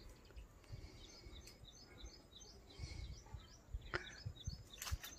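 Faint bird chirping: a repeated high call, about three chirps a second, over low outdoor background noise, with a sharp click about four seconds in.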